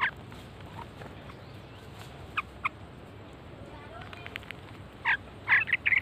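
Short bird calls from jungle babblers and brahminy starlings feeding together: a single call at the start, two brief calls a couple of seconds in, then a quick run of several louder calls near the end.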